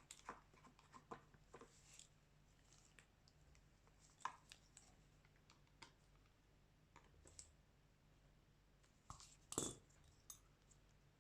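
Faint, scattered clicks and light taps of small repair tools and parts being handled on a smartphone, with a louder knock about four seconds in and the loudest cluster of taps near the end.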